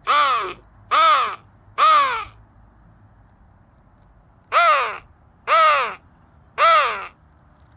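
Flextone Lightning Crow call blown in two sets of three short caws, each caw rising then falling in pitch, about a second apart, with a pause of about two seconds between sets.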